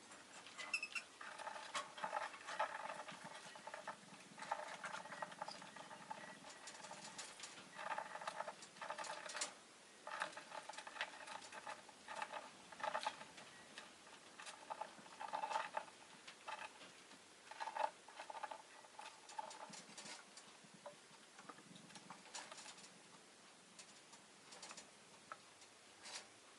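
Rosy-faced lovebird moving about, with many quick ticks and scratches and short, soft chirps coming in small clusters.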